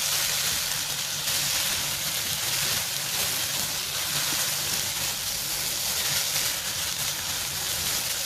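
Rice with onions, toasted with vermicelli and mixed with tomato sauce and fried onions, sizzling steadily in a pot as it sautés on the heat.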